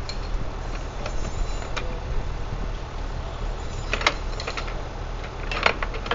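Steady low engine hum, like a vehicle idling, with scattered sharp clicks and rattles, a cluster about four seconds in and the loudest clatter about five and a half seconds in.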